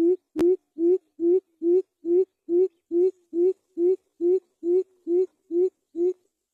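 Greater coucal calling: a long, even series of deep hoots, about two a second, each note rising slightly, stopping about six seconds in. A single sharp click sounds near the start.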